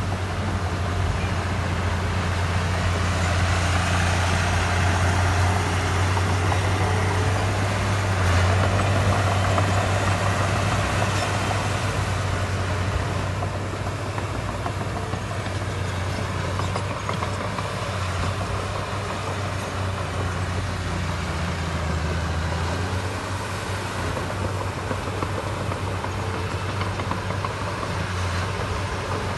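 Heavy diesel construction machinery running: a steady, deep engine hum that swells a little a few seconds in, then settles.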